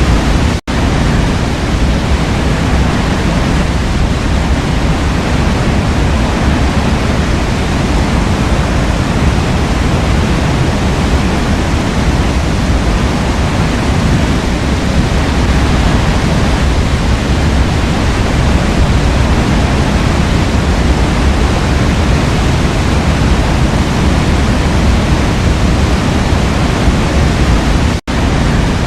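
Waterfall in a forest: water rushing steadily with no change in strength. The sound cuts out for an instant twice, about half a second in and near the end.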